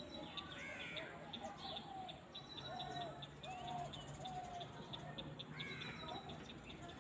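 Several birds calling at once: short repeated whistled notes, quick high chirps and a few sweeping calls, over a faint steady low hum.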